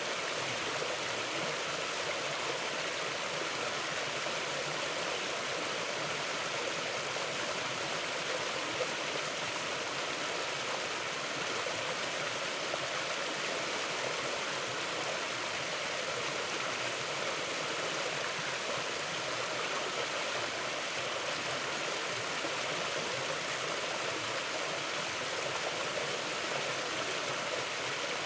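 Mountain river flowing steadily: a constant, even rush of water with no breaks or separate events.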